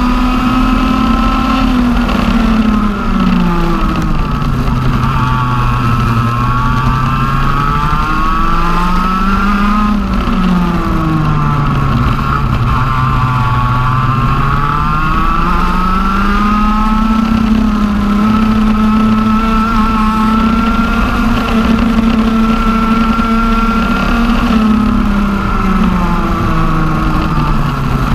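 TM OK-class 125 cc two-stroke kart engine being driven on track. The revs drop and pick up again several times through corners, then hold high for a long stretch before falling near the end.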